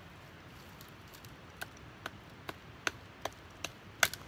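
A Cold Steel Voyager folding knife chopping into a live pine branch: a series of sharp knocks, about two a second, starting a little over a second and a half in and getting louder, the hardest blow near the end.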